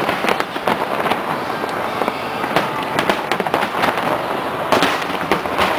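Aerial fireworks display going off continuously: many sharp bangs and crackles in quick succession, packed closely with no pause.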